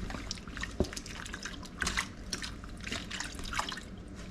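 Raw fish being worked by gloved hands, giving irregular wet squelches and clicks as the seasoning is mixed in.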